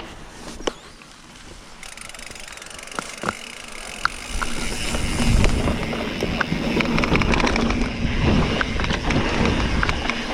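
Mountain bike rolling on a dirt trail: scattered sharp clicks and rattles over tyre and wind noise, which grows louder about four seconds in.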